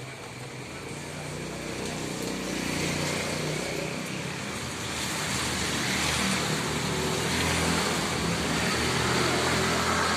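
A motor vehicle's engine running and growing steadily louder as it draws closer, with a steady hiss of rain and wet road over it.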